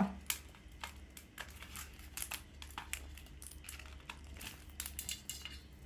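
Parrots cracking and crunching food in their beaks: a scatter of small irregular clicks and crackles.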